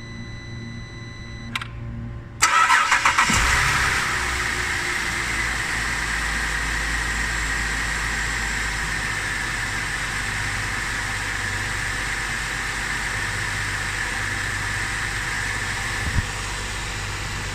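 Holden Commodore SV6's 3.6-litre V6 cranking briefly and catching about two and a half seconds in, then idling steadily with a high whine over it that slowly eases. A click comes just before the start, and a single short knock near the end.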